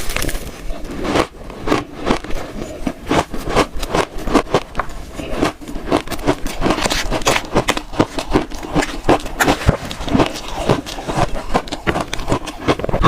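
Close-miked crunching of frozen shaved ice being bitten and chewed in quick, irregular crackles.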